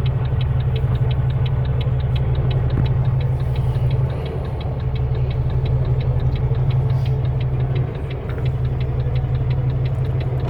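Diesel engine of a Volvo VNL truck running steadily in the cab while the turn signal ticks evenly, about three ticks a second, for a lane change to the left. The engine sound dips briefly twice, about four and eight seconds in.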